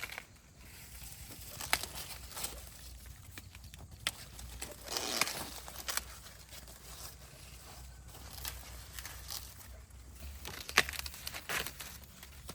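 Irregular rustling and crackling, broken by scattered sharp snaps and clicks.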